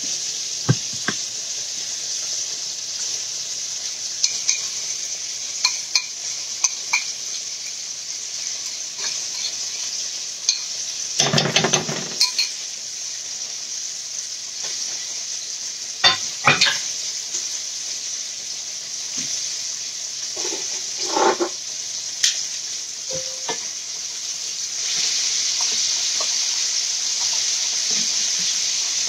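Chicken tenders frying in hot oil: a steady sizzle that grows louder near the end. Scattered clinks and knocks of kitchen utensils against cookware, with a heavier clatter about halfway through.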